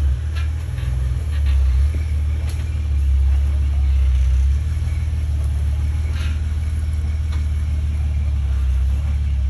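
Jeep engine running steadily at low speed, a continuous low drone, with a few light knocks and rattles over it.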